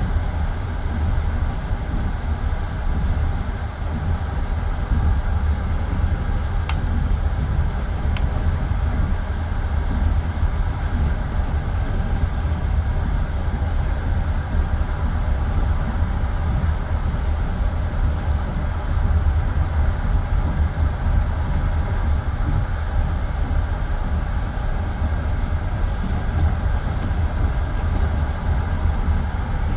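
Passenger train carriage running along the line, heard from inside: a steady low rumble of wheels on rail. Two faint ticks come about seven and eight seconds in.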